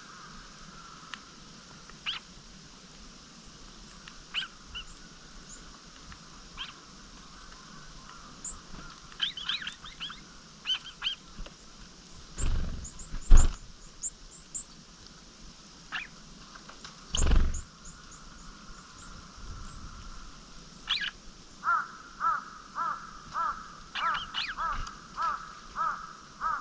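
Small wild songbirds calling with short, scattered high chirps, then a run of repeated notes, about two a second, near the end. Two dull knocks in the middle are the loudest sounds.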